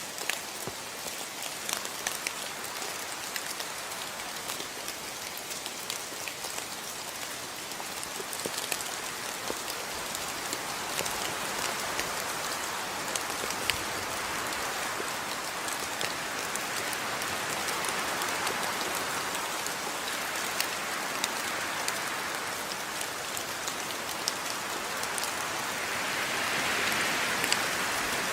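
Rain falling steadily, a dense hiss with many separate drops ticking on surfaces. It grows somewhat heavier around the middle and is heaviest near the end.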